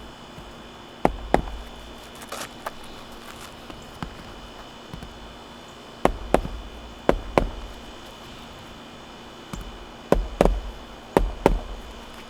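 Hammer striking roofing nails to fasten a replacement asphalt shingle: about nine sharp knocks, falling in quick pairs or threes with pauses between.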